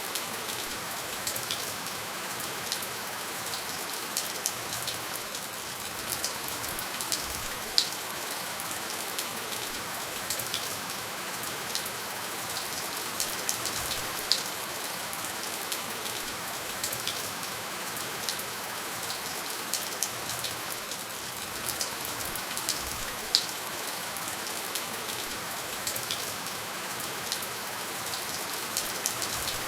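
Steady rainfall without thunder: an even hiss of rain on a surface, with scattered louder individual drop ticks.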